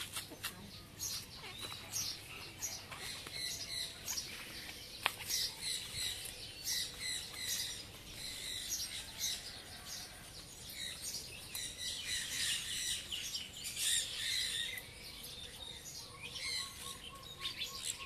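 Small birds chirping and twittering, many short high calls overlapping, busiest about two-thirds of the way through.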